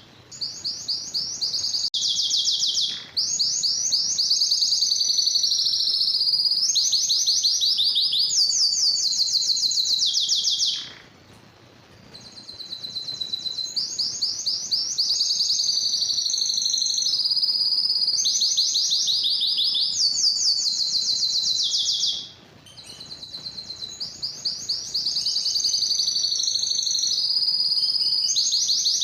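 Domestic canary singing: long runs of rapid trilled notes, each run a different quickly repeated syllable, the song breaking off briefly about eleven and twenty-two seconds in.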